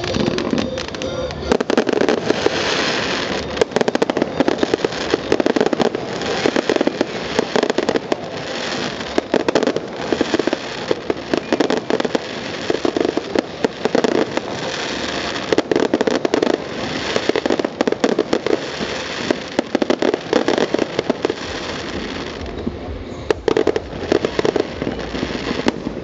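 Fireworks display: a dense, continuous run of sharp bangs and crackling from bursting aerial shells and low-level effects, with a brief lull about three-quarters of the way through before the bangs pick up again.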